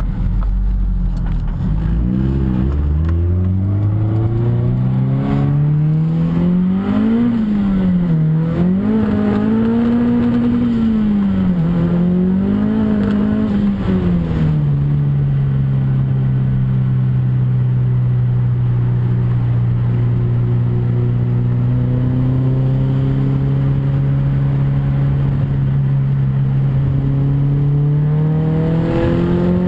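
Mazdaspeed 3's turbocharged 2.3-litre four-cylinder through an aftermarket exhaust manifold and cat-back exhaust, revving up: the engine note climbs for several seconds, rises and falls a few times, then holds a steady drone before climbing again near the end.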